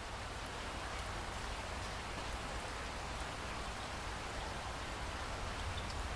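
Steady rain falling in a dense, even hiss, with a low rumble beneath and a few faint drop ticks.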